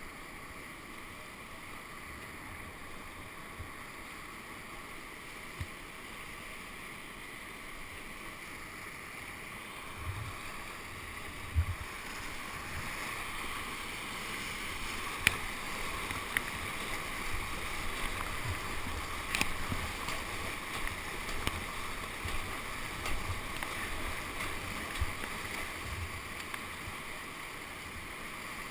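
Rushing whitewater of a man-made channel around a kayak, growing louder about halfway through, with scattered sharp knocks and low thumps over it.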